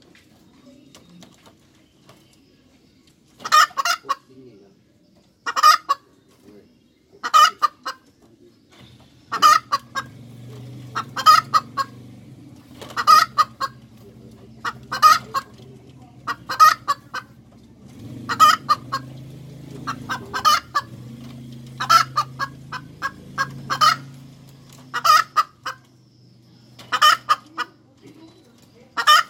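Hen cackling over and over, starting about three and a half seconds in, in short loud bursts of rapid clucks roughly every two seconds. A faint low hum sits underneath through the middle.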